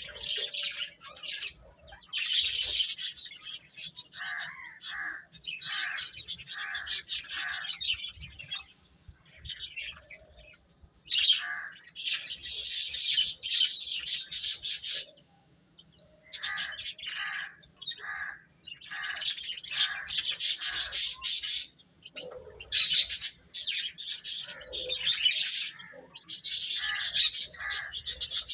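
Baby chicks peeping: dense bursts of high chirping, broken by pauses of a second or two. Twice, a slower run of about five lower-pitched calls.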